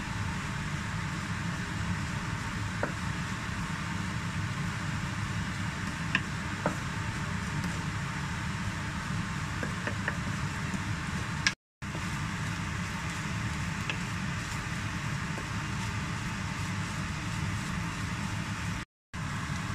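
Grated coconut frying in melted butter in a nonstick pan: a steady sizzling hiss over a low hum, with a few faint taps and scrapes of the spatula as it is stirred. The sound cuts out briefly twice, near the middle and near the end.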